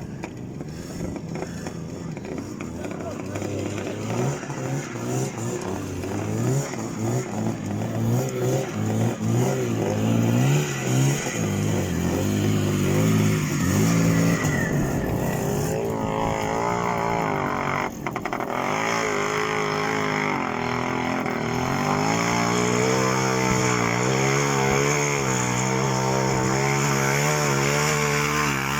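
Off-road vehicle engine revving hard under load, its pitch rising and falling again and again as it works through deep spring mud. It grows louder a few seconds in, and the revs swing up and down more widely in the second half.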